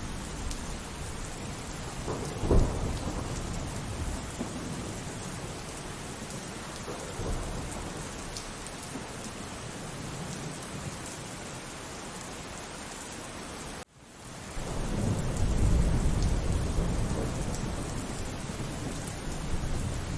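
Steady rainfall with thunder: a sharp thunderclap about two and a half seconds in, then, after a momentary dropout past the middle, a long low rumble of thunder that swells and slowly fades.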